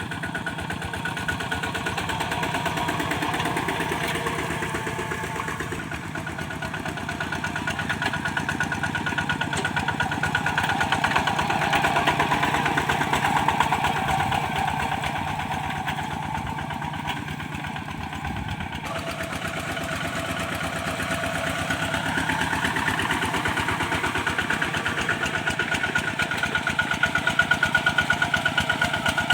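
Single-cylinder diesel engine of a Kubota walking tractor running steadily under plowing load, its rapid even firing swelling and easing in loudness. The tone changes abruptly a little past halfway.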